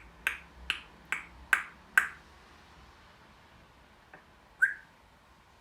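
African grey parrot making a run of sharp, ringing clicks, about two to three a second, that stop about two seconds in; one more loud click follows a little after four and a half seconds.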